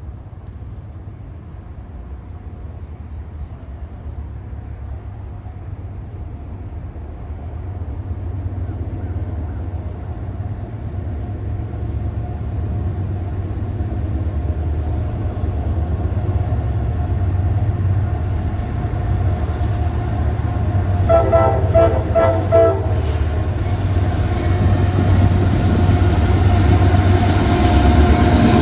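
A train approaching, its low rumble growing steadily louder, with the locomotive's horn sounding in a brief burst of short pulses about three-quarters of the way through.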